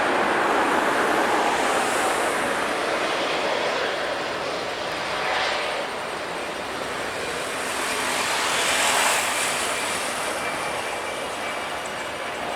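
Airliner jet engine noise: a steady rushing sound that swells and fades, loudest about nine seconds in.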